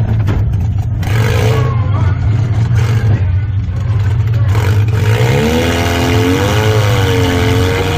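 Small demolition derby car's engine running, heard from inside its gutted cabin while driving. It gives a steady low drone with a few short rushes of noise, and over the last couple of seconds a pitch rises and wavers up and down.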